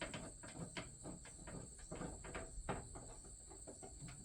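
Light, irregular clicks and small knocks of metal smoker parts and screws being handled during assembly, over a steady high-pitched chorus of insects.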